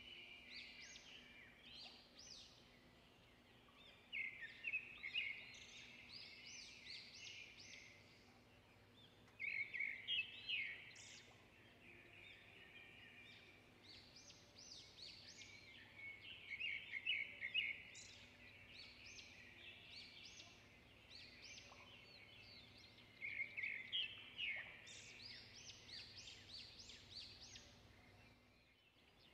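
Faint songbird chirping and twittering in the background, in quick clusters of notes that come in bursts every few seconds.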